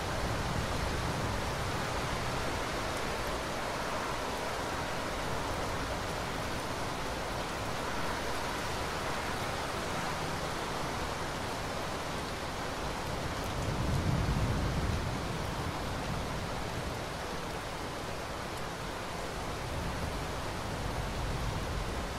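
Steady rain falling, an even hiss of many drops. About two-thirds of the way through, a brief deeper swell lasting about a second and a half rises above it.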